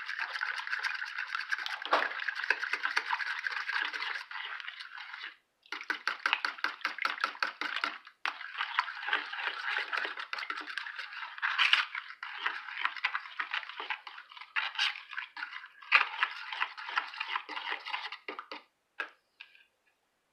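A fork beating cream of chicken soup and milk together in a bowl: rapid clicking and scraping of the fork against the bowl, about eight strokes a second. It pauses briefly twice and stops near the end.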